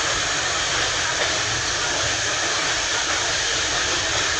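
Steady running noise of a steam-hauled train heard from on board a carriage: wheels rolling on the rails and rushing air, with no distinct beat.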